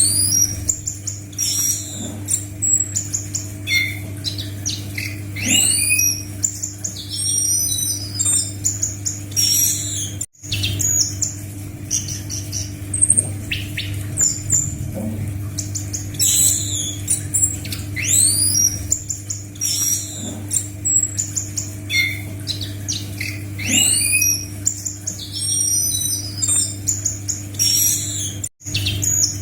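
Anis macan thrush singing: a rapid, varied song of high whistled glides and chirps, phrase after phrase, over a steady low electrical hum. The sound drops out completely for an instant twice.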